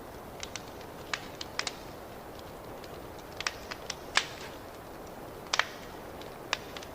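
Wood fire crackling in a fireplace: irregular sharp pops and snaps over a steady low roar of the flames, the loudest pops about four and five and a half seconds in.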